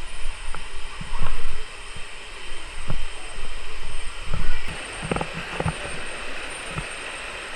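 Steady rush of river water, with irregular low rumbling surges and a few short sharp clicks and knocks.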